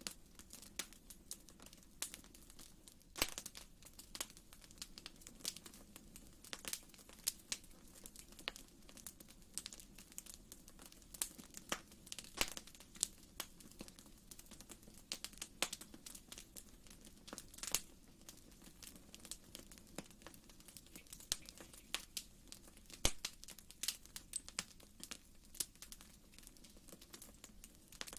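Wood fire crackling in a fireplace: irregular sharp pops and snaps, sometimes several close together, over a soft, steady low background.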